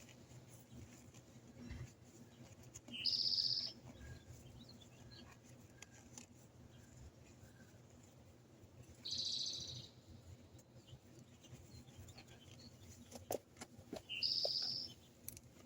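A small bird giving a short, high call three times, about six seconds apart. A few faint clicks come just before the last call.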